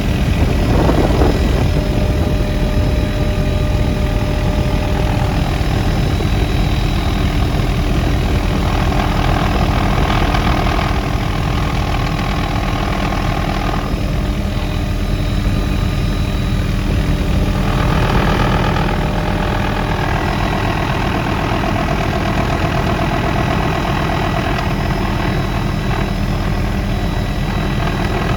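Helicopter's turbine engine and rotor running steadily, with a steady high whine over a dense low drone.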